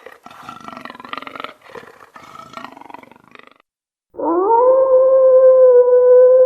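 An animal roaring in rough, broken calls for about three and a half seconds. After a short gap, a loud, steady, pure tone sweeps up quickly about four seconds in and then holds one pitch.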